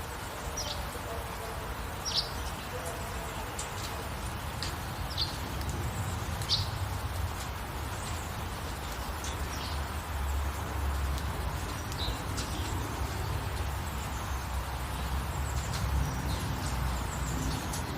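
Small birds giving short, high chirps every few seconds, each a quick falling note, over a steady hiss of rain, with a low rumble underneath.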